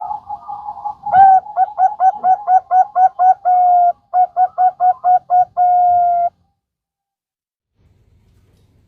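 Bangkok-type zebra dove (perkutut) cooing: a soft opening warble, then a fast run of clipped, evenly spaced coo notes broken by held notes, ending on one long drawn-out coo about six seconds in.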